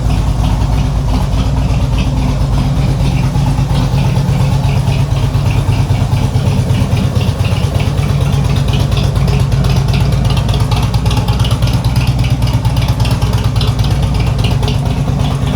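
Harley-Davidson V-twin engine idling steadily, freshly rebuilt and running strong.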